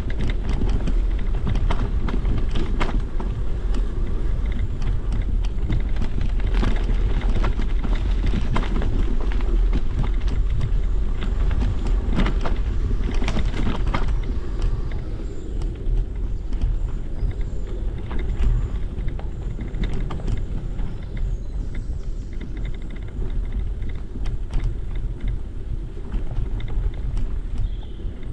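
Riding a bicycle with a camera on board: a steady low rumble of wind buffeting the microphone, with many small knocks and rattles from the bike jolting over the ground.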